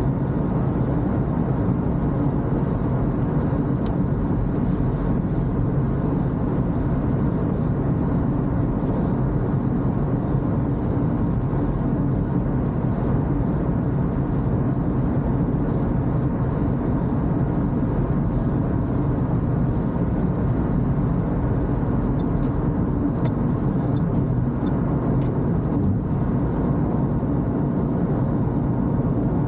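Toyota Corolla driving at a steady pace: an even low drone of road and engine noise, with a few faint ticks near the end.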